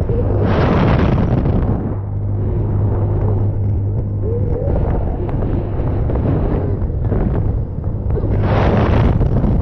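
Wind rushing over an action camera's microphone on a moving fairground ride, swelling loudly twice, about a second in and again near the end, over a steady low hum from the ride.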